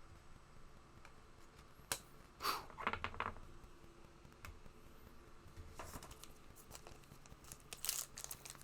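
Faint handling of trading cards and their packaging: soft rustles and sharp little clicks of cards being slid and flipped through. The clearest come about two to three seconds in and again near six and eight seconds.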